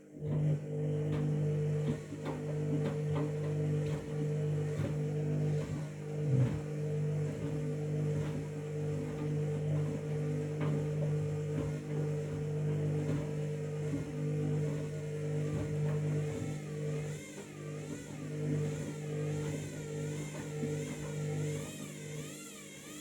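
Washing machine drum motor turning a bath mat through the wash: a steady hum that starts abruptly, holds one pitch with scattered knocks of the load, then cuts in and out in short stretches before stopping near the end.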